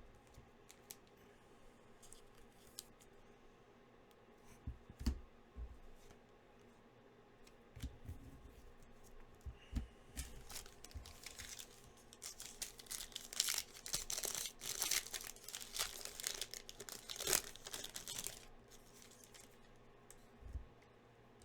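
Foil wrapper of a pack of football trading cards being torn open and crinkled. A few light taps and clicks of handling come first, then the tearing and crinkling runs dense for several seconds from about halfway in.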